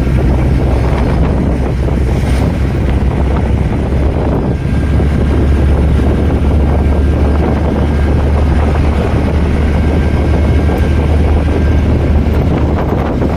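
Steady low rumble of a moving vehicle: engine and road noise with no sudden events.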